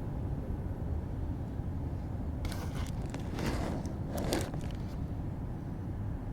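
Steady low outdoor rumble, with a few short rustling scrapes between about two and a half and four and a half seconds in.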